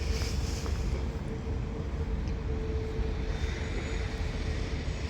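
Northern Class 195 diesel multiple unit pulling out of the station: a steady low diesel rumble with a constant whine held at one pitch.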